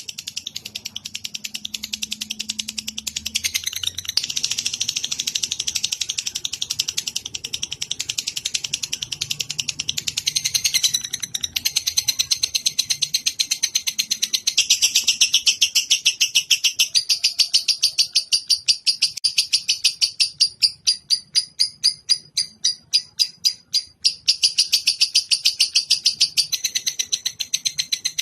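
Recorded songbird chattering in a long, fast, high-pitched run of rapid notes. The pace shifts from section to section, and past the middle it breaks into separate, distinct pulses for a few seconds before running together again.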